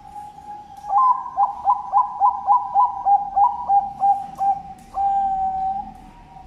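Zebra dove (Bangkok perkutut) singing its cooing song. A soft opening coo is followed by a quick run of about a dozen short notes, roughly four a second, and then one longer held note at the end.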